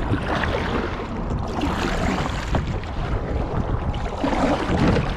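Strong wind rushing over the microphone, with choppy lake water splashing against the kayak hull.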